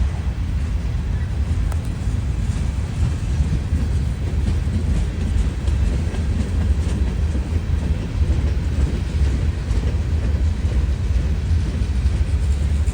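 Indiana and Ohio Railway freight train rolling past, a steady low rumble with faint clicks of wheels on the rails.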